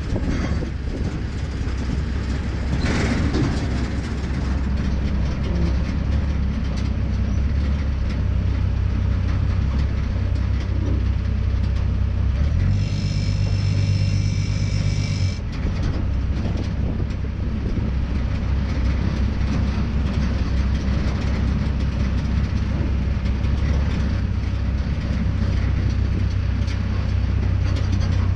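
1938 Ford rat rod truck on the road: engine and road noise make a steady low drone. About thirteen seconds in, a steady higher-pitched tone sounds over it for about three seconds.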